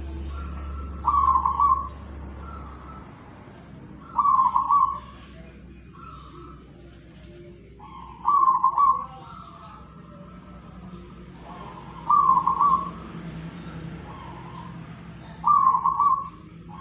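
A bird's whistled call, given five times at intervals of about four seconds, each call short and much louder than the background, with fainter calls between. A low hum runs under the first three seconds.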